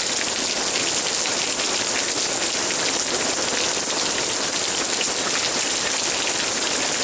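Heavy rain from a hurricane's outer bands falling steadily: a dense, even hiss with many fine drop ticks.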